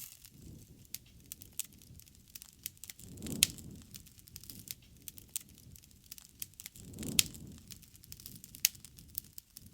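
Campfire crackling: scattered sharp pops and snaps over a low rustle of burning wood, with two louder swells about three and a half and seven seconds in.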